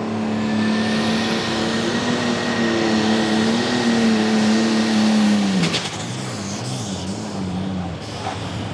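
A super stock pulling tractor's engine running flat out under load during a pull, a steady high-revving note with a high whine above it. About five and a half seconds in, the revs fall away as it comes off the throttle at the end of the pass, and it settles to a lower, rougher running.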